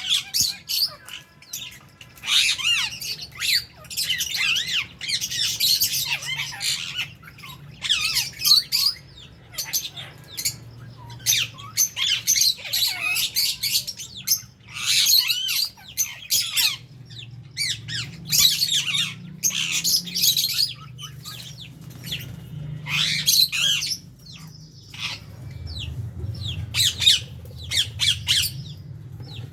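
A flock of lovebirds in an aviary, calling in shrill squawks and chatter that come in quick overlapping bursts, with short lulls between them.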